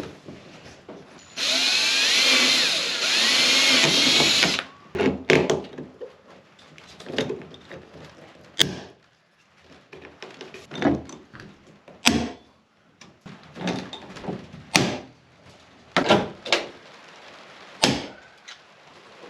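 A power drill runs for about three seconds, its pitch wavering as it bores a hole through metal trim. It is followed by a series of about ten sharp snaps, one every second or two, which fit pop rivets being pulled and their mandrels breaking as the trim strip is riveted on.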